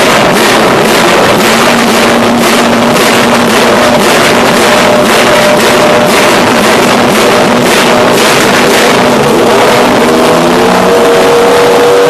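Loud racing-car V8 engine warming up, running at a steady fast idle with small blips that raise its pitch slightly near the end.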